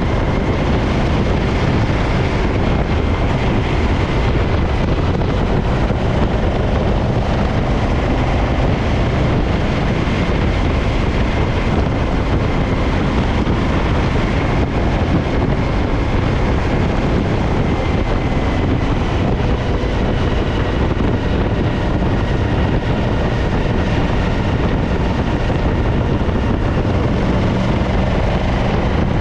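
Suzuki DL1000 V-Strom's V-twin engine running steadily, with wind noise on the microphone; the bike has a misfiring rear cylinder.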